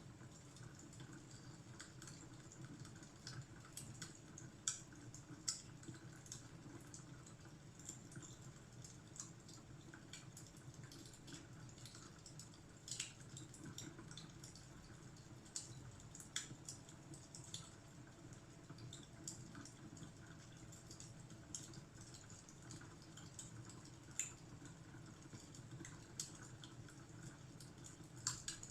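Fireplace fire crackling faintly: irregular small pops and snaps over a low steady rumble.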